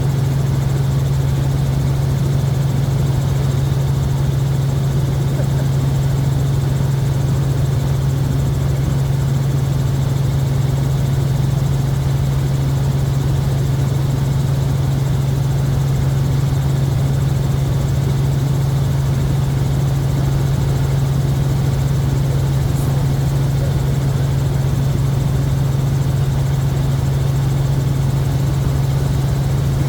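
Tour helicopter heard from inside the cabin in steady flight: a constant low drone from the rotor and turbine over an even rush of noise, unchanging throughout.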